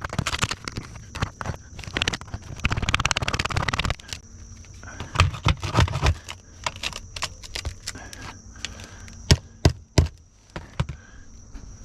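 Roofing materials being handled on a roof: scraping and crackling, a dense rattle of rapid clicks about three seconds in, and three sharp knocks close together near the end.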